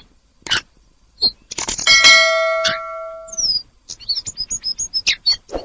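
Tledekan bird calling in short high chirps. About two seconds in comes a loud bell-like clang that rings and fades over a second and a half. From about four seconds in, a rapid run of quick high notes follows.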